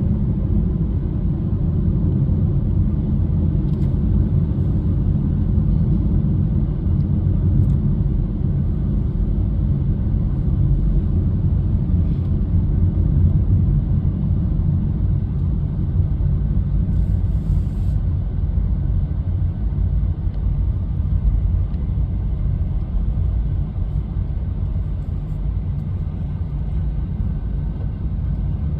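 A steady, loud low rumble with no distinct tones or rhythm.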